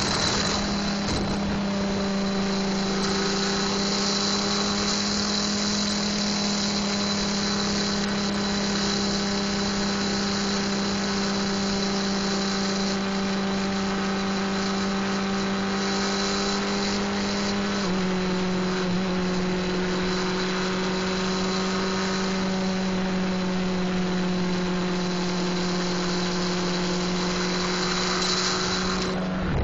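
Sport-bike inline-four engine held at a steady, unchanging pitch for a long stretch with rushing wind noise, as in a run pinned against the gearing's top speed; the pitch drops a little about 18 seconds in, then holds again until it cuts off right at the end.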